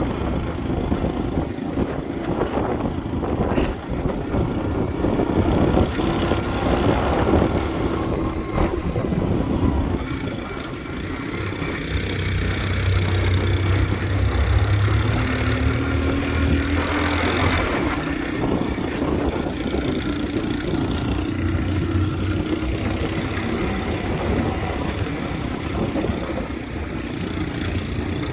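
Motorbike engine running on the move under a steady rush of ride noise, its pitch shifting a little about halfway through.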